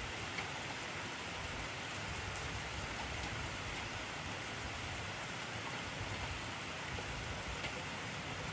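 Steady heavy rain falling on a surface, an even hiss with scattered faint drop ticks.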